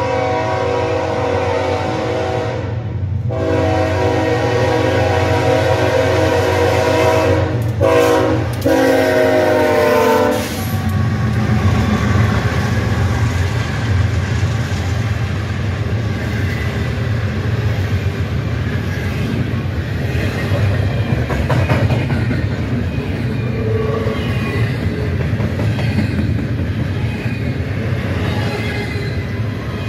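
Diesel freight locomotive's air horn sounding long blasts with brief breaks about three and eight seconds in, stopping after about ten seconds. A double-stack container freight train then rolls past close by, its wheels clattering and rumbling over the rail joints.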